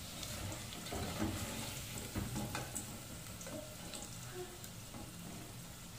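Potato chunks deep-frying in hot oil in a metal pot, a steady sizzle, with a few light clicks of a slotted spoon against the pot as they are scooped out.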